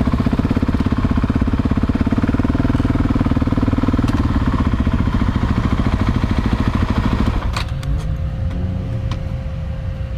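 Husqvarna 701 Supermoto's single-cylinder engine, fitted with a Leo Vince slip-on exhaust, running with a fast, even pulse. About seven and a half seconds in it drops to a quieter, lower rumble, with a few clicks.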